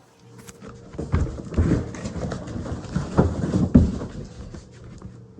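Packaging being handled as the unit is got out of its box: irregular rustling and crackling with several knocks and thumps, starting about a second in and dying down near the end.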